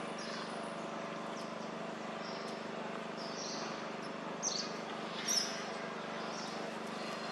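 A few short, high bird chirps over a steady low outdoor hum, with the two loudest chirps about two-thirds of the way through.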